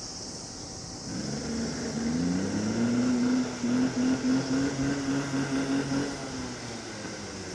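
Electric tram running: a low motor hum starts about a second in, rises in pitch as it picks up speed, then holds steady and fades near the end.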